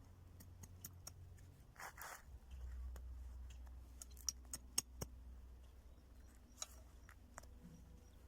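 Garden grass being cut by hand: scattered sharp snips with a short rustle, quiet over a low steady hum.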